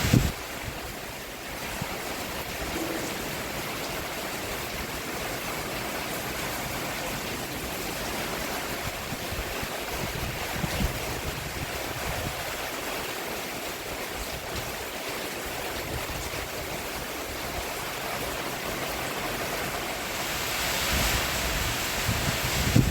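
Steady rain falling on a roof: an even, dense hiss with a few sharper drip taps, swelling briefly near the end.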